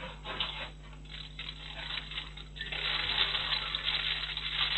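Rain pattering and dripping in scattered taps, turning into a denser, louder patter about three seconds in.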